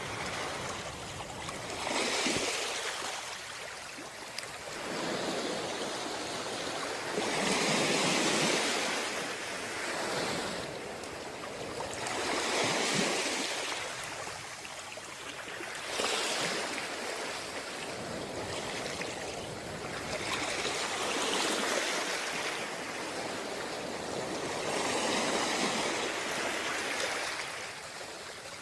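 Sea waves washing in, a rushing hiss that swells and ebbs every four to six seconds.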